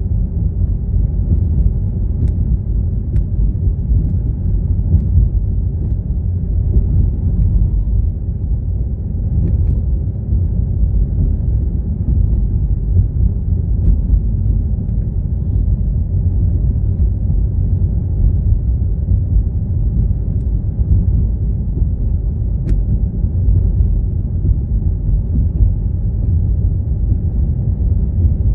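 A car driving along: a steady low rumble of engine and road noise with no change in pace.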